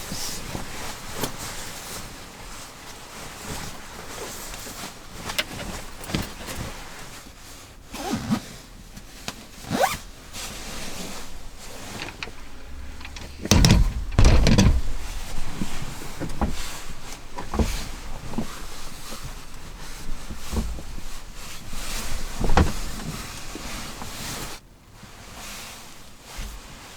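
Assorted knocks, thunks and rustling of things being handled and moved about inside a car, with a heavy low thud about fourteen seconds in.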